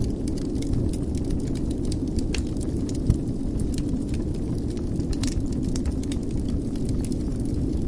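Wood fire burning in a fireplace: a steady low rumble of flames with frequent small crackles and pops, and one louder pop about three seconds in.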